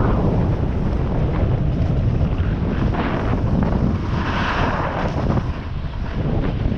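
Wind buffeting the microphone in a steady low rumble, with a hissing swell about four seconds in, like a snowboard edge scraping over snow.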